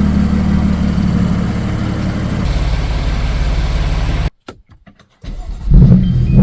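BMW M4 Competition's twin-turbo straight-six idling steadily through a gutted (baffle-removed) exhaust, the idle dropping a step about two and a half seconds in. The sound cuts off abruptly a little past four seconds, then the engine comes back with a loud flare near the end.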